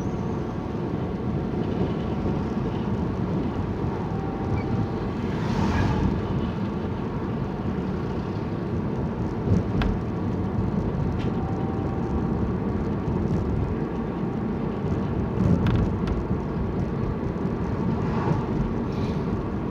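Steady vehicle noise heard from inside a car's cabin, a low even rumble with a few faint ticks.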